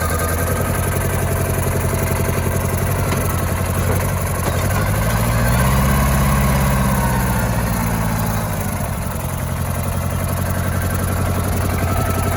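Iseki TC13 compact tractor's diesel engine running steadily. About five seconds in it is revved up briefly, then settles back down to its earlier speed a few seconds later.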